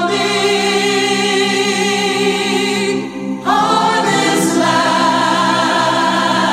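Song vocals, choir-like, holding a long wordless note with vibrato. After a short break about three seconds in, a new long note follows, over a steady low sustained accompaniment.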